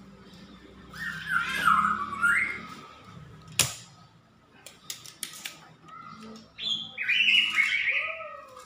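A bird squawking twice in warbling, pitch-bending calls, the second higher. Between them, about three and a half seconds in, a spring-loaded desoldering pump fires with one sharp snap, followed by a few lighter clicks.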